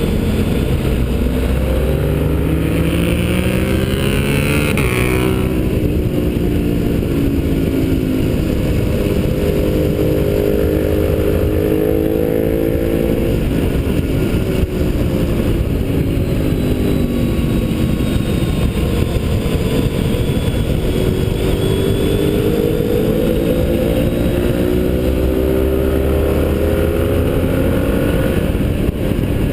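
Motorcycle engine at speed on a racetrack, its pitch climbing under throttle with a quick shift about five seconds in. It climbs again, drops for a few seconds in the middle as the bike slows, then winds back up, under a steady rush of wind.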